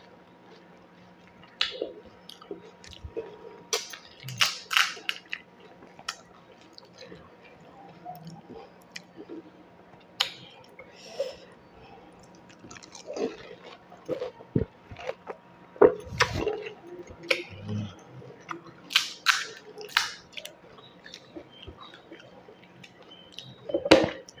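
Close-up chewing and crunching of golgappa (panipuri): crisp wheat-flour puri shells cracking between the teeth, mixed with wet chewing of the spicy water and filling. It comes as irregular crackles and crunches with short pauses between mouthfuls.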